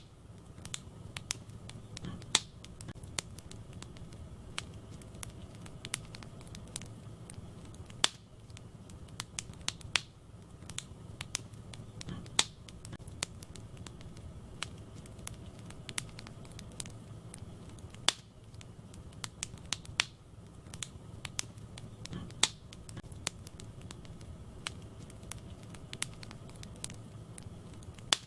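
Wood fire in a fireplace crackling: a constant scatter of small irregular snaps and pops, with a few louder pops every several seconds, over a low steady rumble of the burning.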